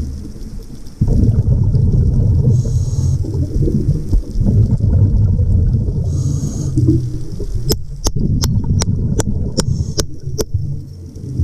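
Underwater noise: a dense low rumble of moving water, with two brief high hisses and, late on, a run of about eight sharp clicks, roughly three a second.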